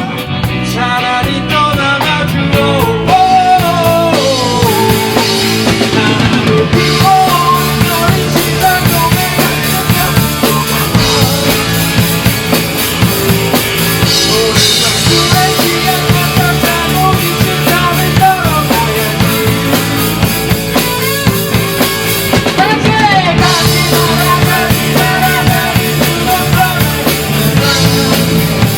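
Rock band playing a song live at a rehearsal: a drum kit keeps a steady driving beat under pitched band instruments, with some notes bent up and down.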